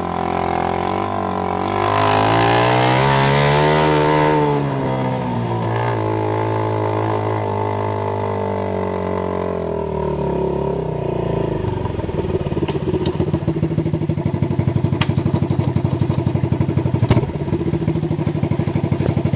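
Honda TRX90's 86cc single-cylinder engine running through an open exhaust with the muffler removed, only a muffler tip on the pipe. It revs up about two seconds in and falls back after about four seconds, then from about twelve seconds in settles to a lower, choppy idle with distinct exhaust pulses and a few sharp clicks.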